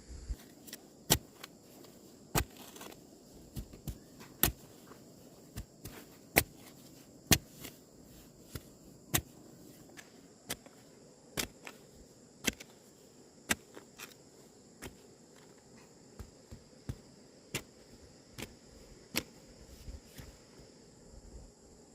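Sharp knocks or strikes repeated unevenly, roughly one a second, over a steady high drone of insects.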